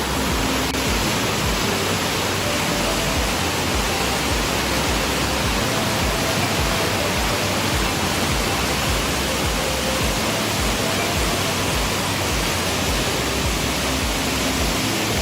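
Fast-flowing river swollen with monsoon water, its strong current rushing steadily.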